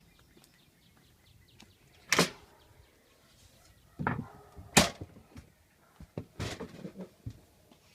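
Several sharp knocks and clatters: one loud knock about two seconds in, two more around four to five seconds, then a run of lighter clattering knocks, over faint ticking.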